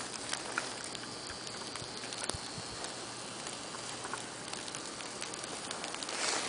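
Snowstorm ambience: a steady hiss with scattered faint ticks and patters.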